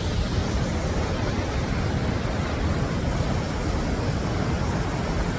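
Waterfall rushing, a steady, unbroken wash of water noise.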